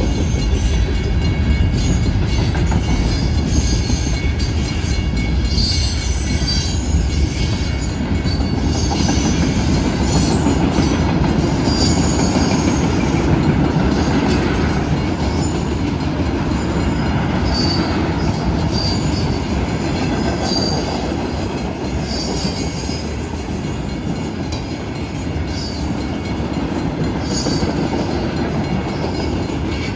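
Norfolk Southern manifest freight train's cars rolling past close by: a steady loud rumble of steel wheels on rail, with short high wheel squeals coming again and again.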